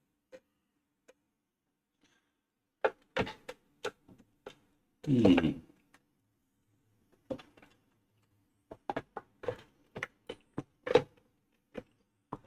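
Scattered clicks and knocks as the casing and parts of a Kenwood stand mixer are handled and worked at during disassembly, with one longer, louder sound about five seconds in and a quick run of clicks near the end.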